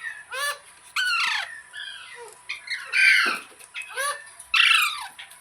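Pet parrot squawking: a quick series of harsh, screechy calls, each sliding down in pitch, the loudest about three seconds in.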